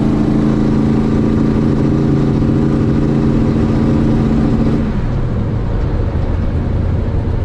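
Drag-racing truck engine running hard at a steady high pitch, then backing off about five seconds in to a lower rumble.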